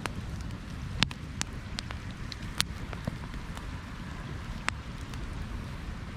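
Campfire burning: wood crackling with scattered sharp pops over a steady low rumble and hiss of the flames.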